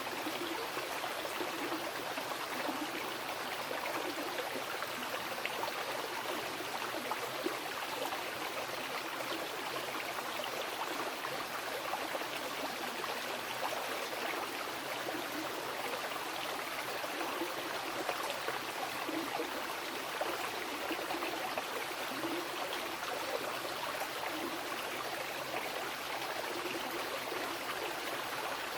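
Mountain river flowing over rocks: a steady, unbroken rush and burble of water.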